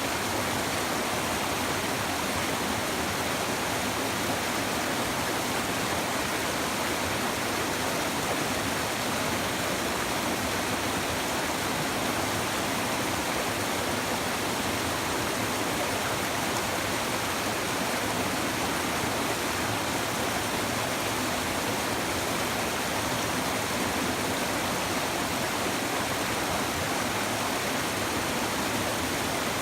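A river babbling over stones: a steady, even rush of flowing water.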